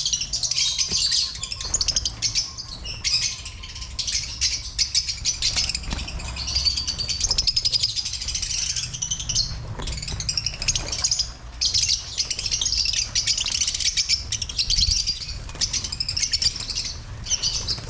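A large flock of caged lovebirds chirping and chattering continuously, a dense, high, overlapping twitter, over a steady low rumble.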